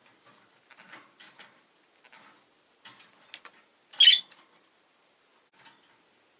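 Rosy-faced lovebirds chirping: a scattered run of short chirps, with one louder call about four seconds in.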